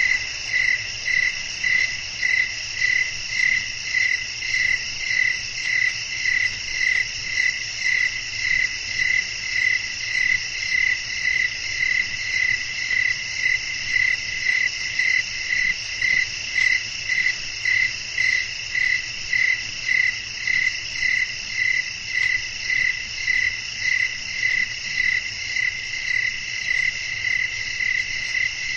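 Night chorus of crickets and other insects: a steady high shrill, with one loud chirp pulsing about one and a half times a second throughout.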